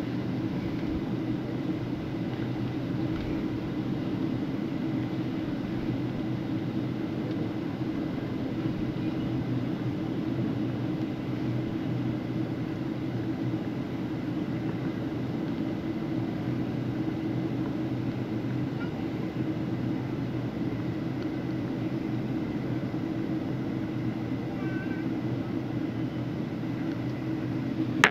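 Steady low drone of a vehicle's interior in motion, unchanging throughout.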